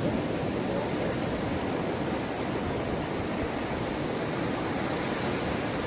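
Sea surf washing onto a beach: a steady rushing of waves with no single break standing out.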